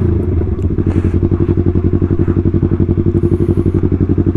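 Yamaha R3's parallel-twin engine idling through a loud exhaust: a steady, rapid, even pulsing beat at a constant pitch.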